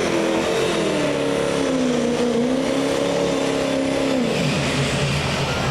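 A pulling vehicle's engine running hard, its pitch wavering up and down, then falling to a lower, steadier note about four seconds in.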